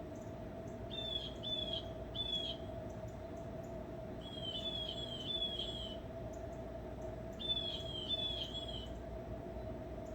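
A bird calling in groups of three or four short, high, slightly falling notes, a few seconds apart, over a steady hum.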